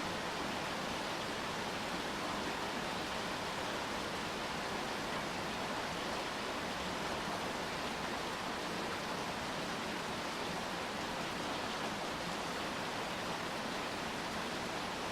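Steady rain falling, an even unbroken hiss with no separate drops or other events standing out.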